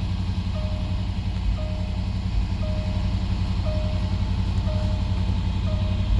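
2011 Range Rover Sport HSE engine idling steadily, with a short electronic chime beeping about once a second over it.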